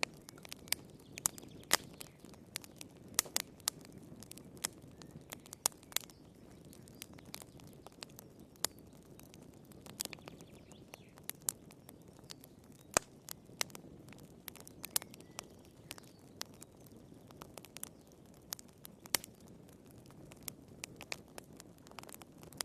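Wood fire crackling in a fireplace: irregular sharp pops and snaps, a few each second at times, over a low steady rush of the flames.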